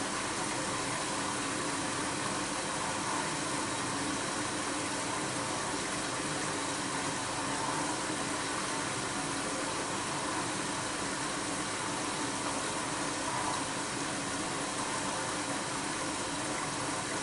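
Bosch WAB28220 front-loading washing machine running a quick-wash program: water rushes steadily into and around the drum.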